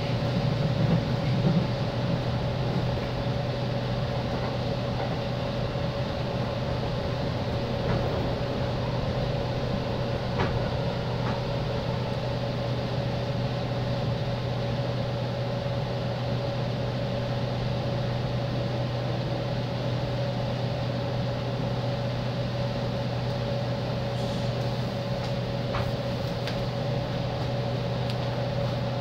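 Inside a JR East 205 series electric commuter train: a steady electrical hum in two tones over an even low rumble, with a few faint knocks along the way.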